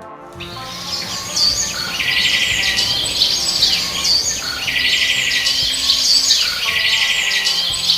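Birds chirping and trilling in a dense chorus that repeats its pattern every few seconds. It starts abruptly just after the beginning and cuts off sharply at the end, like an edited-in birdsong track.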